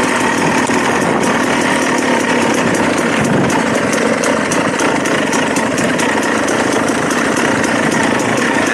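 Dirt bike engine running steadily at even revs, with no marked revving, and light ticking on top.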